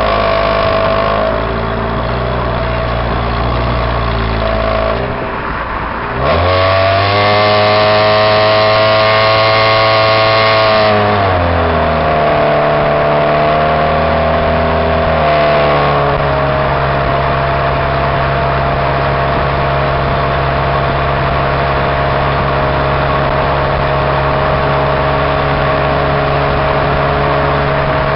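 Exhaust of a 2002 Pontiac Grand Am's Ecotec four-cylinder, run with no catalytic converter or resonator, heard close to the tailpipe while driving. The engine runs steadily, eases off briefly, then its pitch climbs sharply about six seconds in under hard acceleration, holds high for about five seconds, drops back and settles into a steady cruise.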